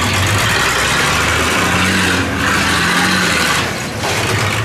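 Monster truck engine running loud, its engine speed rising and falling.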